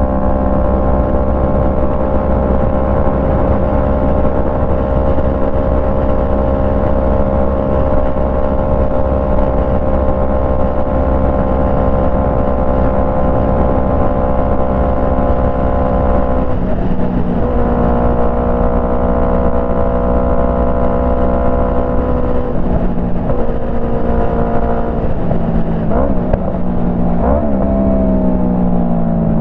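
Yamaha MT-03 engine running through a Jeskap full exhaust while riding at a steady cruise, its pitch sinking slowly. A gear change breaks the note about 17 seconds in. Near the end, a few brief rises in engine note are followed by a falling pitch as the bike slows.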